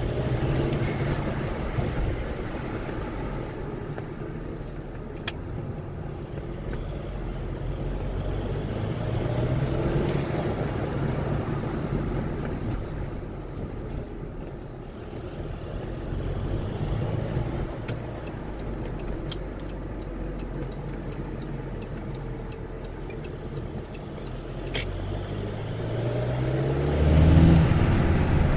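Turbodiesel car engine, a factory 2.0 TDI (BKD), pulling while driving, its pitch rising several times as it accelerates, most strongly and loudest near the end. A few sharp clicks stand out over the steady road noise.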